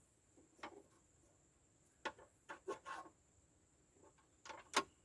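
A few light clicks and knocks of hand work on the cab parts: one about half a second in, a quick run of four or five around two to three seconds in, and another run near the end with the loudest click.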